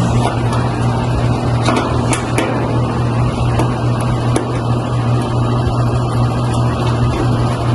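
A loud, steady low mechanical hum, like a nearby machine or another unit running, with a few sharp metallic clicks about two seconds in and again near four and a half seconds, as screws and the sheet-metal panel cover of an air-conditioning unit are worked loose.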